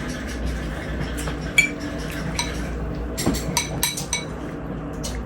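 Cutlery clinking against a dish in light, ringing strikes, with a quick run of clinks a little past halfway, over a steady low background hum.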